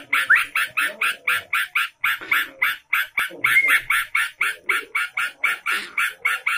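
Yellow-vented bulbul (trucukan) calling in a rapid, unbroken run of short, harsh notes, about six a second, with fainter lower-pitched sounds beneath.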